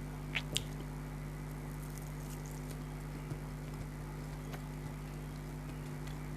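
Close-miked eating sounds: two sharp crisp clicks of a bite about half a second in, then faint scattered chewing ticks, over a steady low electrical hum.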